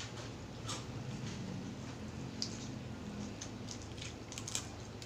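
Close-up eating sounds: a piece of crispy fried chicken skin being bitten and chewed, with scattered crisp crunches over a steady low hum.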